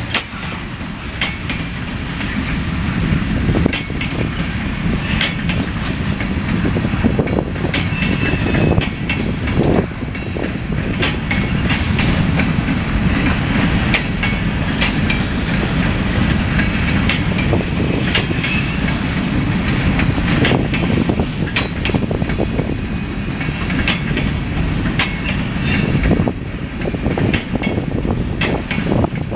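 Freight cars of a long mixed freight train rolling past: a steady rumble of steel wheels on rail, broken by irregular clicks and knocks as the wheels cross rail joints, with now and then a faint wheel squeal.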